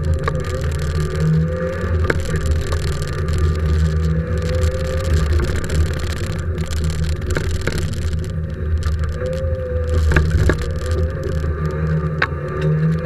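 A Fiat rally car's engine heard from inside the cabin, running hard with its pitch rising and falling as the driver works the throttle and gears. A few sharp clicks and knocks come through over it.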